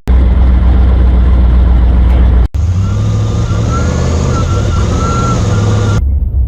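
Off-road vehicle engine running with a heavy, steady low drone. It cuts off sharply about two and a half seconds in and again near the end, with a thin wavering whine over the engine in between.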